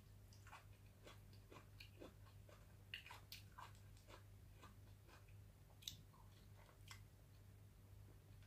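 Faint close-up chewing and mouth sounds of someone eating catfish adobo with her fingers: scattered small wet clicks and smacks. A low steady hum runs underneath.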